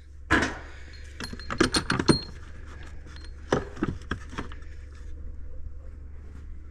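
Steel trailer hitch balls clinking and knocking against metal as they are handled and sorted. A quick cluster of sharp clinks comes in the first two seconds and a few more about three and a half to four and a half seconds in, over a steady low hum.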